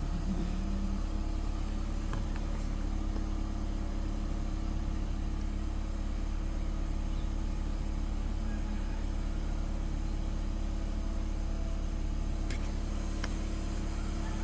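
Toyota RAV4 engine idling steadily, an even low hum.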